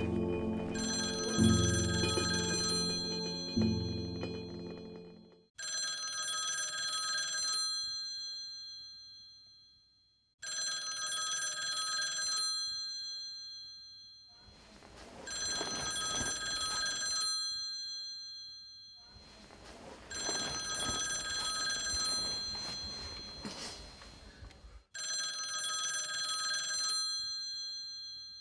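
Low music fades out over the first few seconds. Then a telephone rings in repeated bursts of about two seconds or more, with short pauses between them, about five times.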